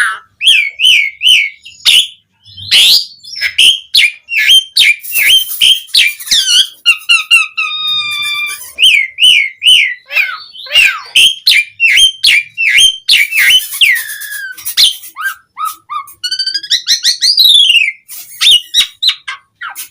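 Javan pied starling (jalak suren) singing loudly and without pause: a rambling song of varied whistles, quick repeated notes, clicks and rising and falling slurs, packed with imitated phrases.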